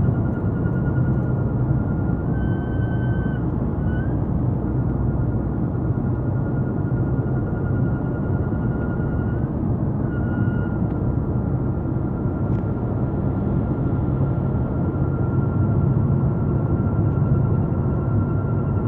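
A thin, steady high-pitched whine from a 2007 VW Passat while driving, over the rumble of the road and engine. The whine steps up in pitch briefly about two to three seconds in and drops out for a moment around ten seconds in. It is a noise that stops when the brake pedal is pressed lightly.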